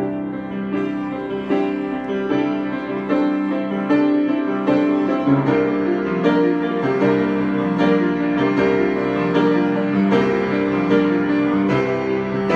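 Piano played in a slow, gentle improvisation, with chords and single notes struck about once a second and left to ring into one another.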